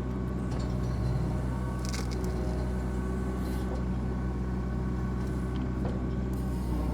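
Small compact excavator's engine running steadily at a constant speed while it works, with a faint knock about two seconds in.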